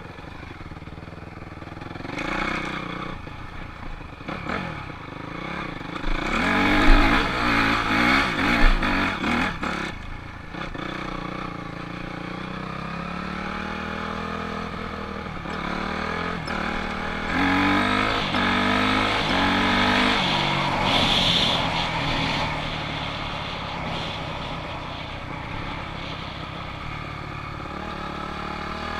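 Honda CRF250R dirt bike's single-cylinder four-stroke engine running and revving while ridden, with repeated rises in pitch as the throttle is opened. The loudest stretch comes a quarter of the way in.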